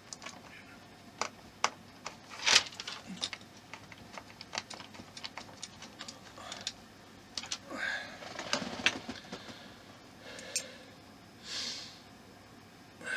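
Irregular light clicks and taps of small screws, a screwdriver and hard plastic model parts being handled and fitted, with a few short scraping rustles in the second half.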